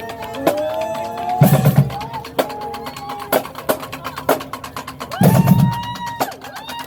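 Marching band playing: horns holding long notes over rapid drum strikes, with two heavy low hits, about a second and a half in and again about five seconds in.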